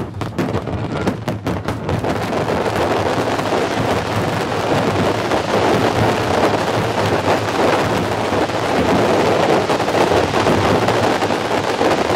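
Dense barrage of aerial firework shells. A few separate bangs at first, then explosions and crackle merge into a continuous rumbling roar.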